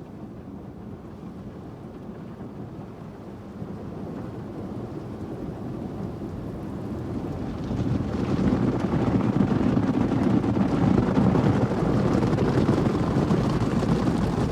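Automatic car wash running over the car, heard from inside the cabin: a steady rush of water spraying onto the car, building up and getting clearly louder about eight seconds in.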